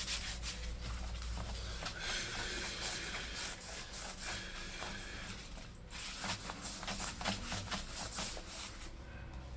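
Irregular rubbing and wiping strokes on a laptop's casing as it is cleaned with a cleaner.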